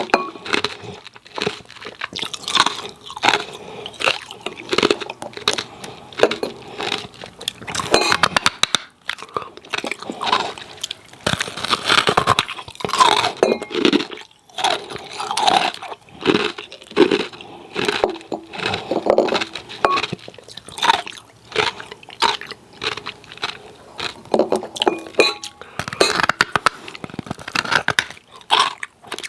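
Hard ice cubes being bitten and chewed close to the microphone: a continuous run of sharp, crackling crunches in quick, irregular succession.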